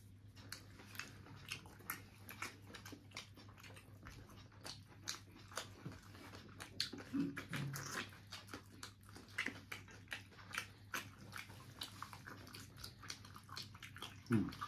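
Wet chewing and mouth smacking while eating curry and mutton with roti: many small, irregular clicks.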